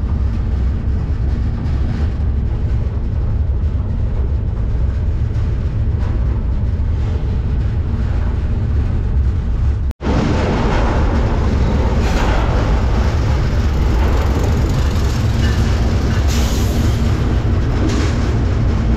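Freight train rolling, heard from aboard: a steady low rumble with rattle and hiss. It drops out for an instant about halfway through, then comes back with more rattle and hiss.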